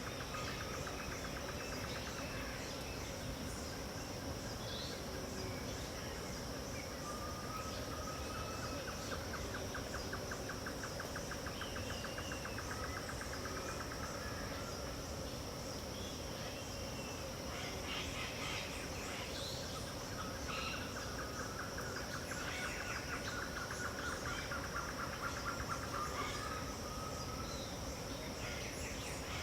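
Dawn chorus of wild birds and insects: a continuous high insect drone under scattered bird chirps and calls, with two long, rapid trills of several seconds each.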